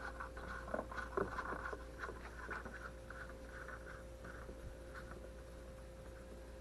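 Faint scuffing and a few light taps from hands handling gear, thinning out after about three seconds, over a steady faint electrical hum.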